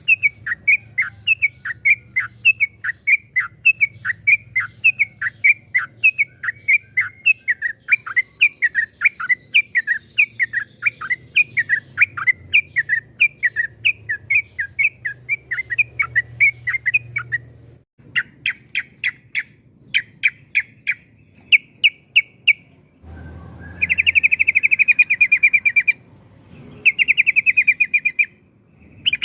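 Yellow-vented bulbul (trucukan) singing: a long series of quick down-slurred whistled notes, about three a second, which breaks off about 17 seconds in. Short runs of sharp notes follow, then fast chattering trills near the end, the long rapid-fire song prized in trucukan.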